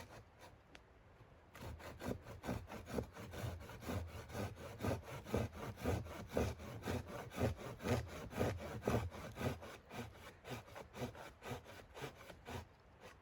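Wood being sawn by hand in fast, even back-and-forth strokes, starting about a second and a half in and stopping near the end.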